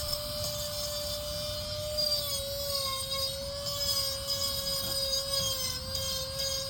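Power carving tool running steadily into log wood, its motor whine dipping slightly in pitch twice as it bites under load.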